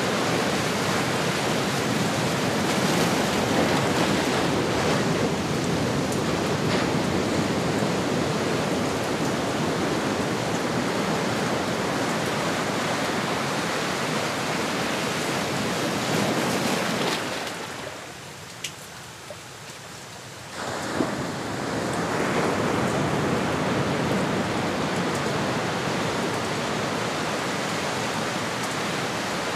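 Ocean surf: a steady rushing wash of waves, which falls away into a brief lull about two-thirds through and then swells back up.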